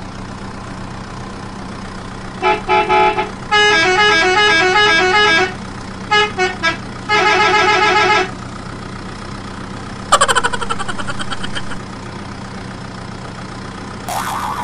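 Cartoon-style vehicle horn sound effects: a few short toots, a stepping multi-note horn tune, more short toots and one long toot. About ten seconds in, a fast rattling tone fades out over nearly two seconds, over a steady low hum.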